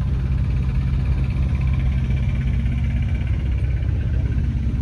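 Heavy truck's diesel engine running steadily with a low, even throb.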